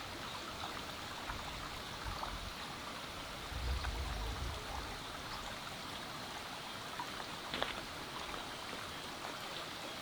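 Steady hiss of running water, with a brief low rumble about four seconds in and a single short click near the end.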